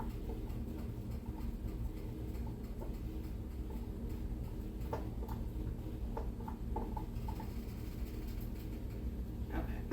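Rubber spatula scraping puree out of a Vitamix blender container: soft, scattered scrapes and light ticks over a steady low hum, a few clearer ones past the middle.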